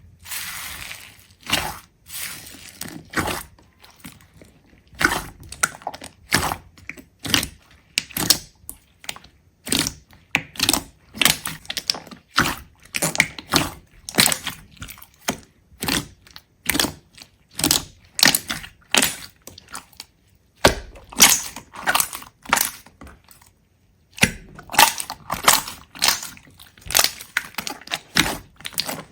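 A fast run of sharp, crisp cracks and crunches, about two or three a second, as of something brittle being crushed or broken piece by piece, with a short break about three-quarters of the way through.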